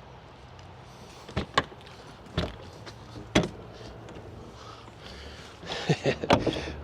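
Sharp clicks and knocks of an RV's exterior storage compartment door being unlatched and opened: four separate clicks in the first few seconds, then a quick cluster of clicks and rustling near the end.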